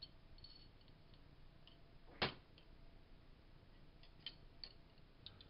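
One sharp click a little over two seconds in, followed by a few faint light clicks near the end, over a quiet room.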